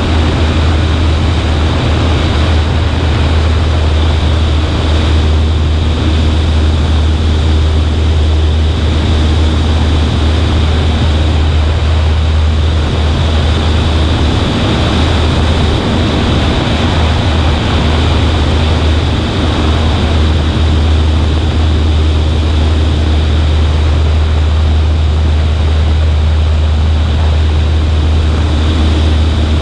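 Cessna 140A's propeller and small piston engine droning steadily in flight, with a constant rush of wind over a wing-mounted microphone.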